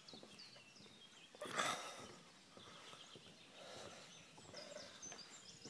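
Small birds chirping and singing, with many short high calls. A brief loud noise cuts across them about a second and a half in.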